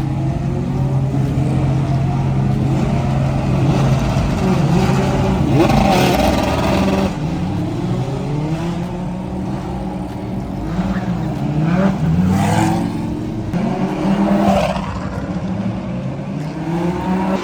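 Several Lamborghini race-car engines idling and revving during warm-up. A steady idle at first, then overlapping rises and falls in pitch as the throttles are blipped.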